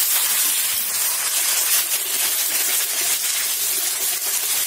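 Sliced onions and freshly added ginger-garlic paste sizzling loudly in hot oil in a wok while being stirred with a spatula: a steady, hissing fry.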